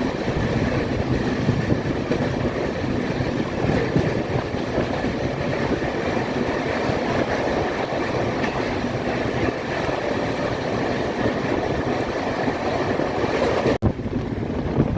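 Passenger train running on the track: a steady rumble and rattle from the moving coaches. Near the end the sound cuts out for an instant and comes back duller.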